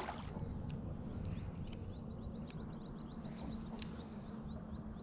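A bird calling in a quick series of short, rising high chirps, about four a second, over a low steady rumble of open-air background.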